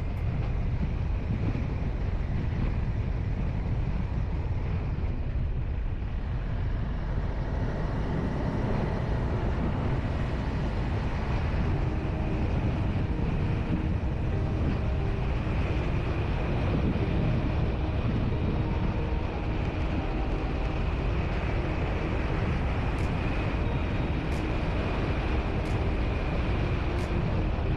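Steady engine and road noise of a vehicle on the move, with a few faint ticks near the end.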